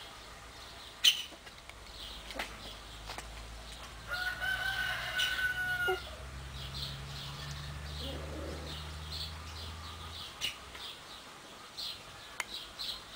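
Birds outdoors: short chirps come again and again, and one drawn-out pitched call lasting about two seconds starts about four seconds in. A sharp click sounds about a second in, and a low hum runs underneath until near the end.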